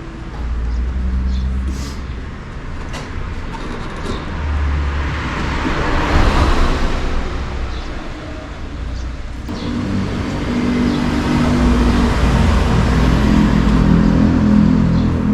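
A car engine running steadily with a low rumble. A rushing hiss swells and fades about five to eight seconds in, and the engine's hum grows fuller about nine and a half seconds in.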